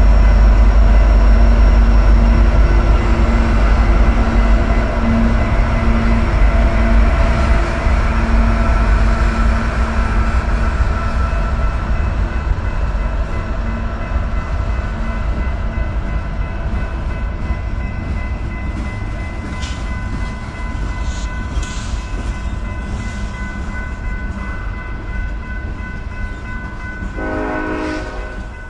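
Freight train passing a grade crossing: diesel locomotives running by, then freight cars rolling past and slowly fading. Steady crossing-bell tones ring throughout, and a short train horn sounds near the end.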